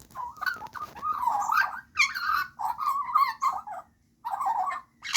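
Juvenile Australian magpie calling in a run of warbling, chattering phrases, with a short break about four seconds in before it starts again.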